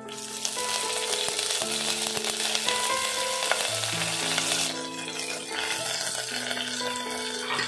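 Fresh curry leaves sizzling and spitting in hot oil with tempering seeds in a nonstick pan, stirred with a spatula. The sizzle is strongest for the first four or five seconds, then eases. Background music with held notes plays underneath.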